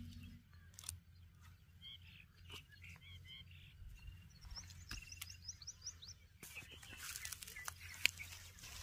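Small birds chirping faintly, including a quick run of short rising chirps midway, with scattered light clicks and rustles of handling; the rustling thickens into a crackle over the last couple of seconds.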